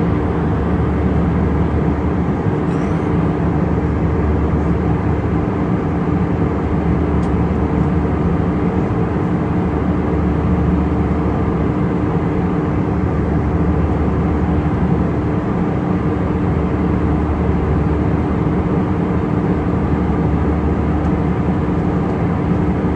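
Steady, loud engine drone heard from inside a moving vehicle: a constant noise with an unchanging low hum, and no change in pitch or level.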